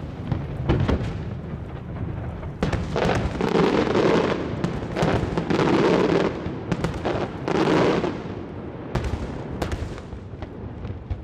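Aerial fireworks shells bursting in quick succession: many sharp bangs throughout, with three longer, louder spells between about three and eight seconds in.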